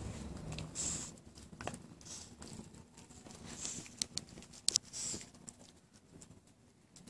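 A dog licking: irregular wet smacks and slurps, with a few sharp clicks about four to five seconds in.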